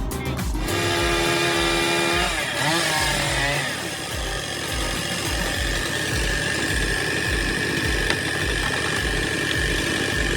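A motor-driven machine, chainsaw-like, running with a steady high whine from a few seconds in. Under it is an even low thump about twice a second, like the beat of background music.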